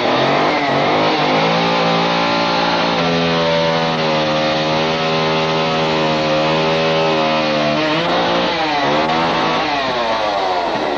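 Chainsaw engine revving up and running at high speed, easing off and revving back up about eight seconds in.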